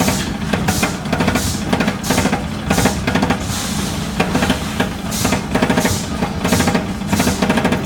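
Electric wire-end cutting machine for stainless-steel mesh panels running, a steady motor hum under rapid mechanical ticking, with irregular clattering bursts as the wire ends are chopped.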